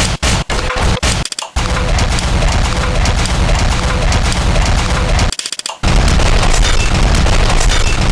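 Loud, harsh remixed audio: a dense rattle like rapid-fire shots, cut off abruptly for short gaps, once just over a second in and again for about half a second around five seconds in.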